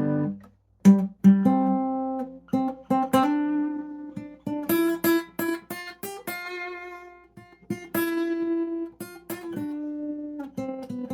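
Acoustic guitar playing an instrumental passage with no voice: notes and chords are plucked and left to ring. There is a brief stop just under a second in.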